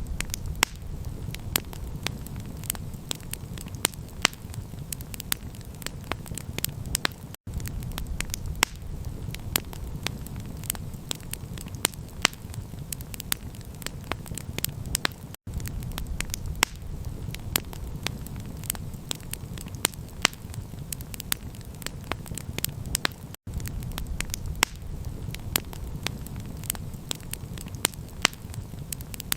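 Campfire crackling, with frequent sharp pops and snaps over a steady low rumble. The sound drops out for an instant about every eight seconds, three times in all.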